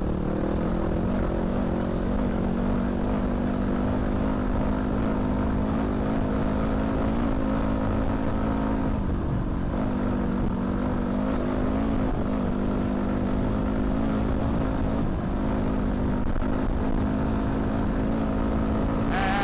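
2006 Yamaha WR250F dirt bike's single-cylinder four-stroke engine running at steady revs while riding along, the pitch easing up and down slightly, with wind rumbling on the microphone.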